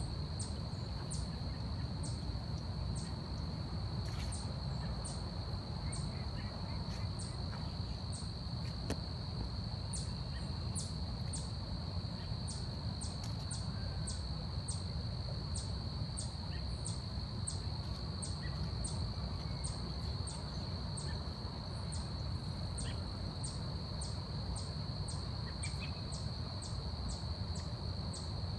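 Forest insects: a steady high trill, with short sharp high chirps repeating about once a second and coming faster toward the end. Faint bird calls sound over a low steady rumble.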